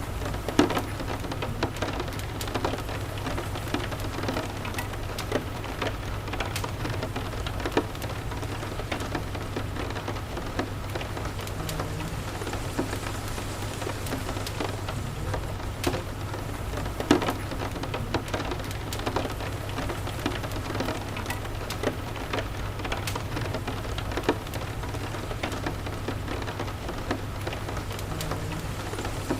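Steady rain with a crackling fireplace: continuous rain hiss with frequent sharp pops and crackles, over a low steady rumble.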